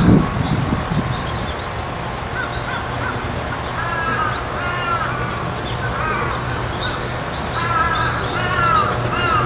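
Birds calling: short, arched calls repeated in clusters of two or three, starting about four seconds in, over a steady low hum.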